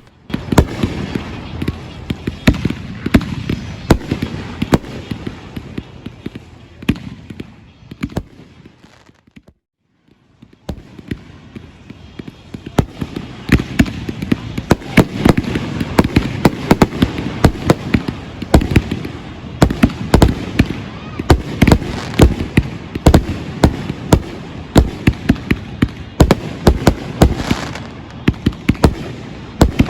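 Fireworks display: many sharp bangs and pops in quick, irregular succession, stopping briefly about ten seconds in before resuming more densely.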